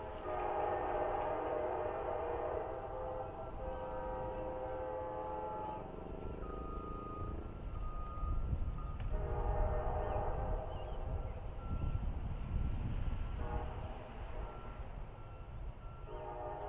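Diesel locomotive air horn sounding long blasts over the low rumble of a passing train: one blast of about six seconds, a second of about four seconds after a short gap, and a third starting near the end.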